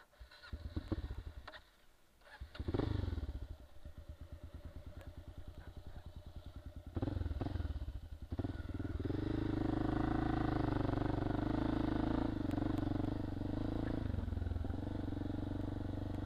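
Dual-sport motorcycle engine being restarted: a few short cranking clatters, then it catches about two and a half seconds in, its revs falling to an even idle. About seven seconds in it gets louder, and from about nine seconds it runs steadily under load as the bike pulls through deep sand.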